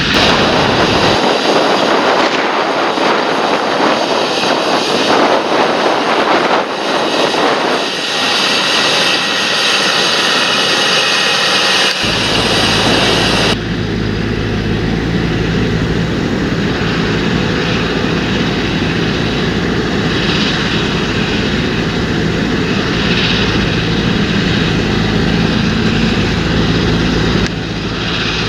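Large John Deere tractor working a field, its diesel engine running steadily under load, heard as a loud, dense rushing drone. The sound changes abruptly about a second in, around twelve seconds in and again near the end.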